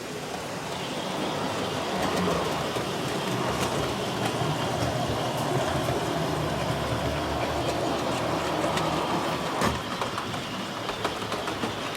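Model train running along its layout track: a steady rolling rumble with many small clicks. It builds over the first couple of seconds and eases after about ten seconds, just after one sharper click.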